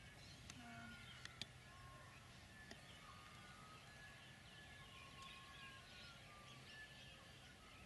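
Near silence with faint distant birdsong: scattered short chirps and whistled notes. A few small clicks about a second in.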